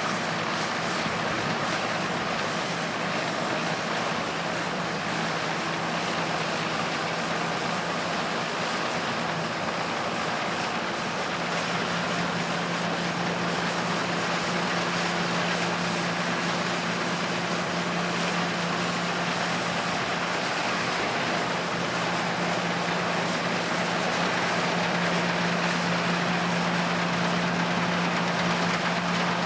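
Vintage farm machinery running steadily with a constant low hum, growing a little louder toward the end.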